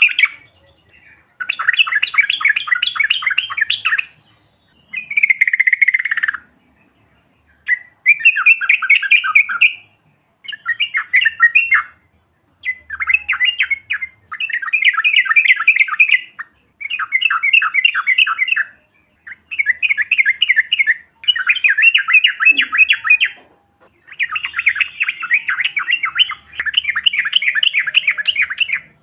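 Yellow-vented bulbul (trucukan) singing: phrases of rapid, chattering trilled notes, each one to three seconds long, repeated about eleven times with short pauses between them.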